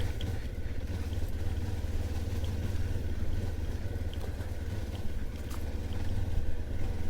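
Mutt motorcycle's engine running steadily with a low drone as it climbs a slippery, muddy lane.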